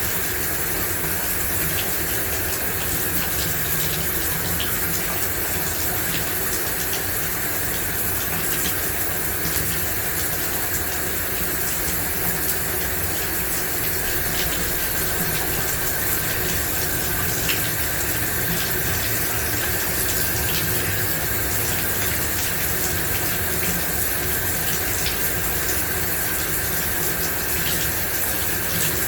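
Shower running: a steady stream of water spraying and splashing, even and unbroken, with tiny droplet ticks in it.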